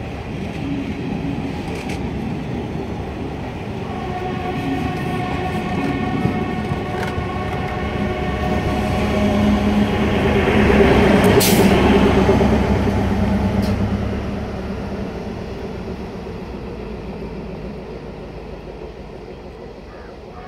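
DEMU diesel-electric multiple unit train running past along the platform: a steady rumble of wheels on the rails with the hum of its diesel power unit. The sound swells to its loudest about halfway through, with a brief sharp noise at the peak, then fades as the train moves away.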